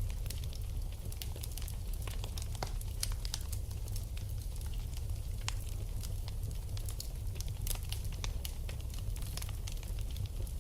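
Wood fire in a fireplace burning steadily, with frequent irregular sharp crackles and pops over a low, steady rumble.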